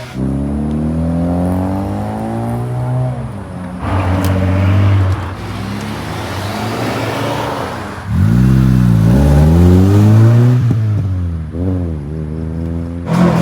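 Car engine revving: the revs climb slowly over the first few seconds, settle, then the throttle is blipped several times in quick succession near the end, each blip rising and falling sharply.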